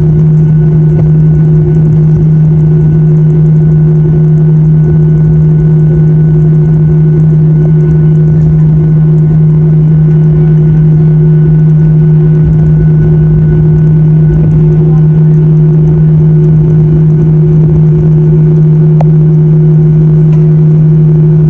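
Airliner engine drone heard inside the cabin: a loud, steady low hum over a rumble, unchanging throughout.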